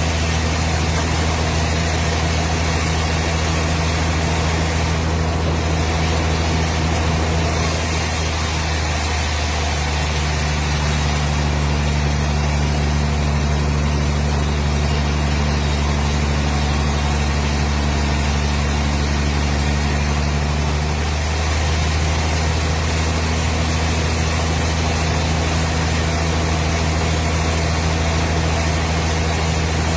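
An engine running steadily, with a low, even hum.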